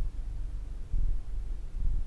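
Domestic cat purring close up: a deep, low rumble that swells and eases with each breath, about once a second.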